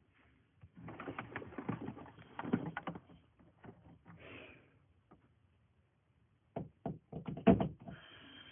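Handling noise: a run of knocks, taps and rattles, in one cluster about a second in and a louder one near the end.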